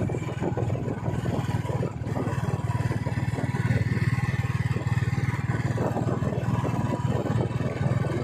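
Royal Enfield motorcycle engine running steadily under way, its exhaust a continuous fast train of low pulses.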